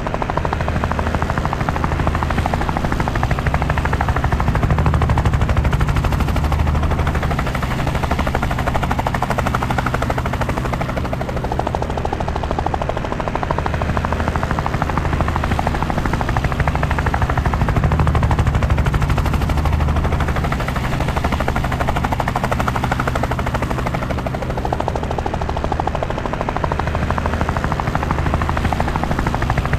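Helicopter in flight: a steady, rapid rotor chop over a low drone, the level swelling and easing every several seconds.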